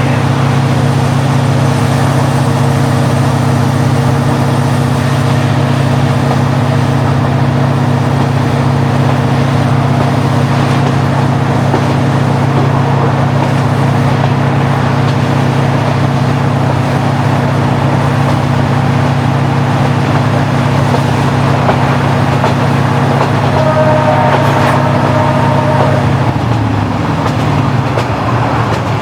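KiHa 40-series diesel railcar's original DMF15HSA diesel engine running steadily under power, a steady engine hum. About 26 seconds in the engine note falls as the power is eased off, shortly after a brief ringing tone.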